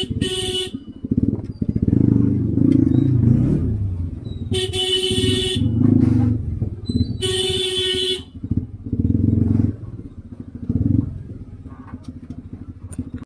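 Motorcycle engine running at low speed in traffic, with a vehicle horn honking three times, each honk about a second long: at the start, about four and a half seconds in, and about seven seconds in.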